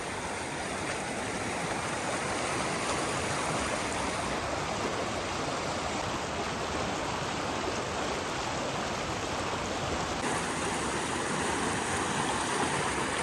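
Overflow water rushing steadily down a reservoir's spillway outlet channel, which is normally dry and now runs because the lake is over full.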